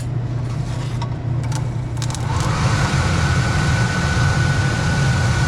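Steam pressure washer running with a steady low hum. About two seconds in, a louder rushing noise with a thin steady whine starts and holds as its burner is switched on for a test of the ignition transformer.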